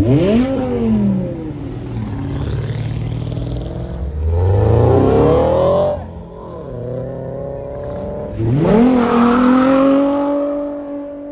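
Car engine revving and accelerating hard: a quick rev at the start, a rising pull that cuts off about six seconds in, then another sharp rise held at high revs until near the end.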